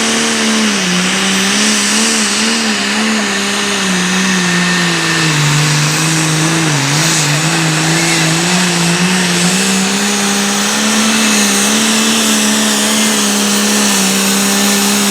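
Competition pulling tractor's engine at full throttle dragging the weight sled: a loud, steady engine note that sags lower under load through the middle of the run and climbs back up in the last few seconds.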